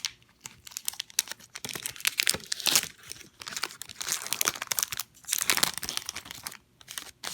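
A foil trading-card booster pack being torn open and its wrapper crinkled, in irregular crackling bursts that stop near the end.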